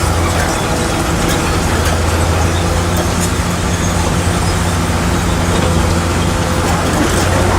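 Heavy diesel engine running steadily under work, a constant low hum with light scattered clicks and clanks over it.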